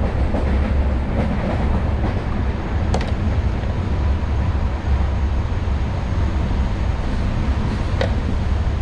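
LHB passenger train coach running at speed: a steady low rumble of wheels on rail, with a sharp click about three seconds in and another near the end.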